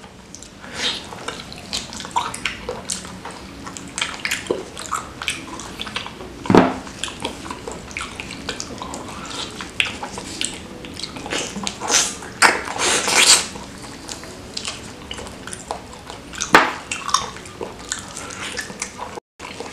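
Close-up wet chewing and lip-smacking of saucy beef kikil (foot tendon), a run of sticky clicks and squelches with a few louder slurping smacks.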